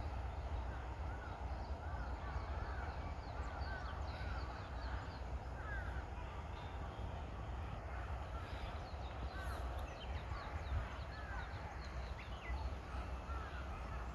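Early-morning bird chorus: many short chirping calls overlapping and repeating throughout, over a steady low rumble.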